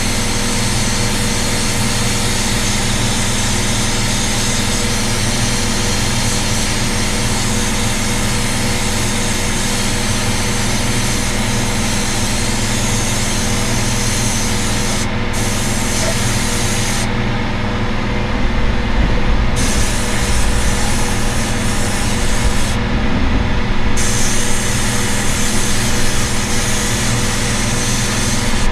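Compressed-air blasting gun hissing steadily over the hum of an air compressor. The high hiss cuts out briefly a few times in the second half.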